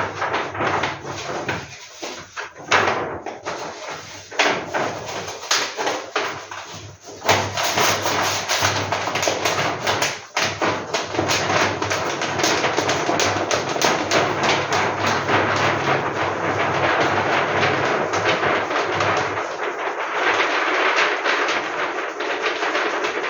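Paper posters and their wrapping being handled: steady rustling and crinkling with frequent sharp crackles and knocks.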